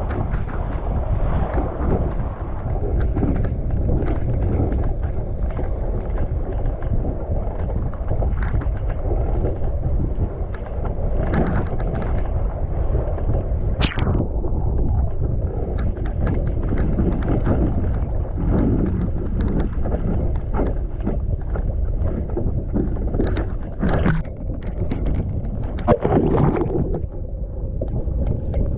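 Gusty wind buffeting the microphone aboard a small sailboat under way, a loud, steady rumble. Water slaps against the hull in short, irregular splashes, with one sharp crack about halfway through.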